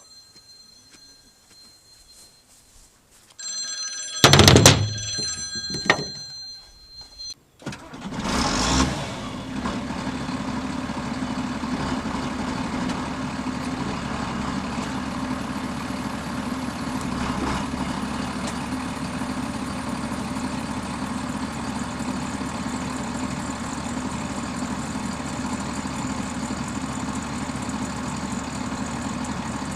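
A tractor's dashboard warning chime sounds, the starter cranks, and about eight seconds in the diesel engine catches and settles into a steady idle.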